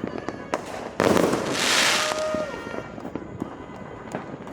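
New Year fireworks and firecrackers going off: scattered sharp pops and bangs throughout, with a loud bang about a second in followed by about a second of hissing crackle.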